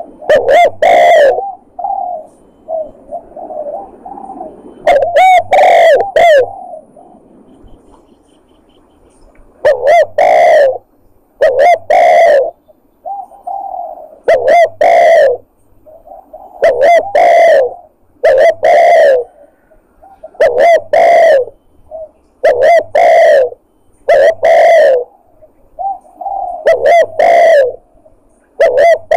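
Spotted dove (tekukur) lure call: loud, repeated cooing phrases about every two seconds, with softer coos in between.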